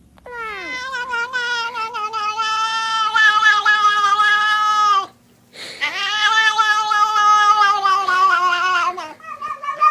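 Domestic cat yowling: two long, steady calls of several seconds each with a short intake of breath between them, and a shorter call beginning near the end.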